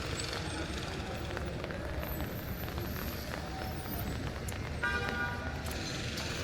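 Steady street traffic running past, with a single short horn toot about five seconds in.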